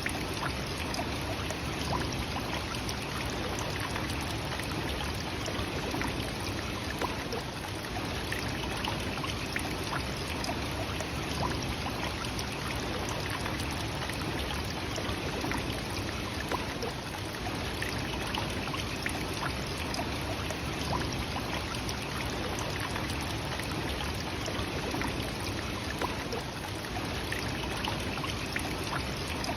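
Nachi Falls, a tall single-drop waterfall, pouring down in a steady, unbroken rush of water.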